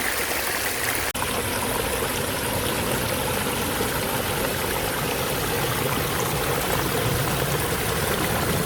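Small mountain stream babbling over rocks in a steady rush of water. About a second in it drops out for an instant, then comes back deeper and lower.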